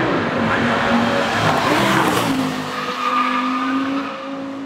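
Classic racing car engine at full throttle up a hill, its note dropping sharply with an upshift at the start and again a little past halfway, then holding a steady pitch while fading away near the end.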